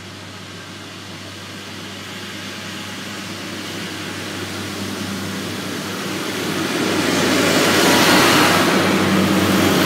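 Class 142 Pacer diesel railbus approaching and passing over the level crossing. The diesel engine hum and the wheel-on-rail rumble grow steadily louder and are loudest as the train runs past, about eight seconds in.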